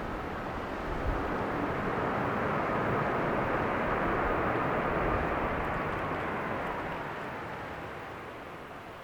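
A jet airliner passing, its engine noise swelling to a peak a few seconds in and then fading, with a faint whine riding on it.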